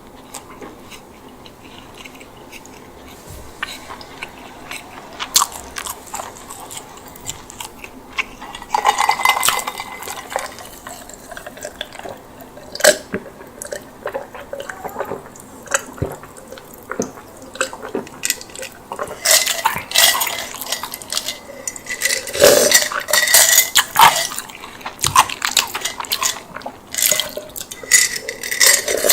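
Close-miked eating of a chicken bake: bites and chewing of the bread, mixed with clinks of tableware. The clicks and clinks come thicker and louder in the second half.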